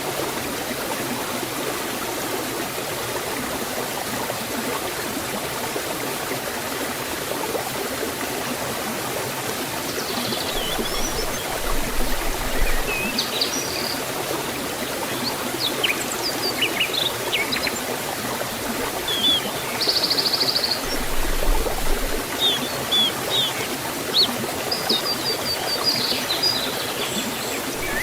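Forest waterfall and stream water rushing steadily. From about ten seconds in, small birds chirp over it, with a short buzzy trill about two-thirds of the way through.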